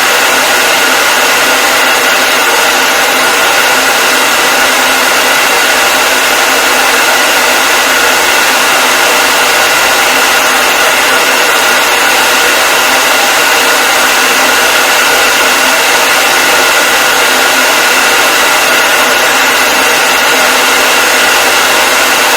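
Electric hair dryer running continuously: a steady, loud rush of blown air with a constant motor whine, unchanging throughout.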